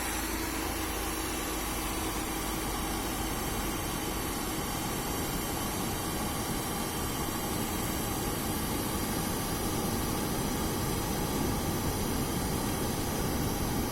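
Steady rushing of air blown into a bonfire by a machine, even throughout, with a faint hum that fades away over the first few seconds.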